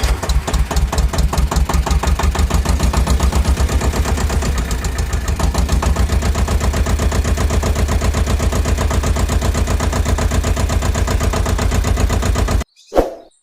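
Truck engine idling with a rapid, even knocking beat, cutting off suddenly near the end.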